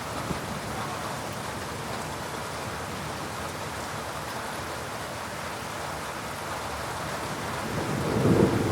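Heavy rain falling steadily, with a low rumble of thunder swelling up near the end.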